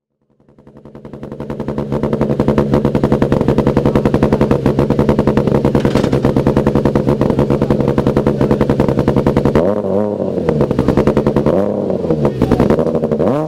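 Citroën C4 WRC rally car's 2.0-litre turbocharged four-cylinder idling with a fast, even pulsing, fading in over the first couple of seconds. In the last few seconds the throttle is blipped three times, each rev rising and falling.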